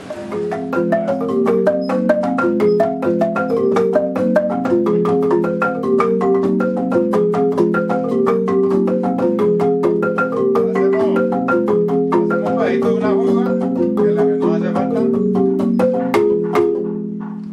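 Marimba de chonta playing a fast, repeating pattern of struck wooden-bar notes, with sharp percussion strokes over it. It fades out near the end.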